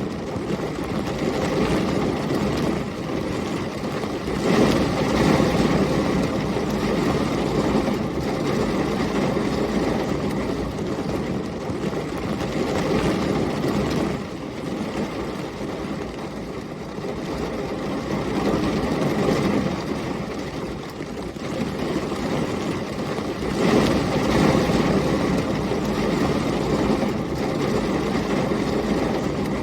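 Heavy rain pouring steadily with storm wind, swelling louder twice: a few seconds in and again about three-quarters of the way through.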